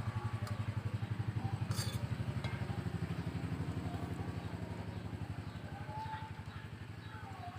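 An engine running with a fast, even pulsing, a little fainter near the end.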